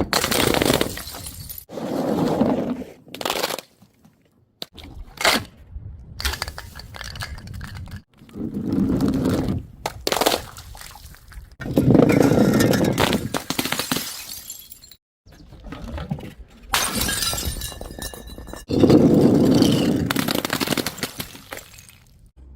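Glass bottles shattering one after another, each break followed by shards scattering and clinking. Some breaks ring briefly.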